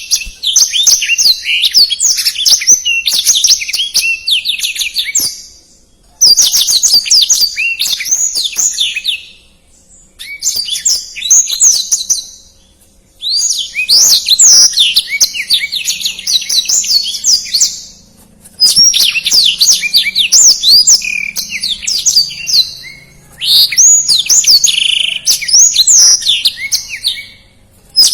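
Black-throated canary (blackthroat) singing a fast, tumbling song of rapid high twittering and sweeping notes, delivered in six long phrases with brief pauses between them.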